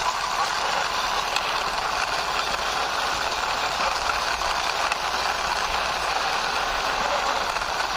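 Toy auto rickshaw's plastic wheels rolling and rattling steadily over a surface as it is pushed along by hand.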